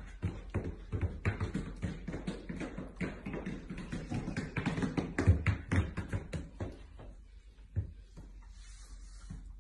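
Footsteps of dogs wearing boots: quick, irregular taps and clomps of the booted paws on a hard floor. They are busiest for the first six seconds, then thin out to a few scattered steps.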